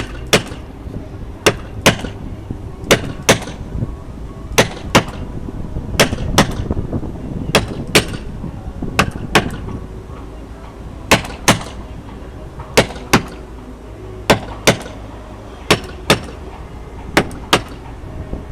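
Mallet blows on a caulking making iron, driving caulking cotton hard into a wooden boat's plank seam. The sharp strikes come in steady pairs, two quick blows about every second and a half.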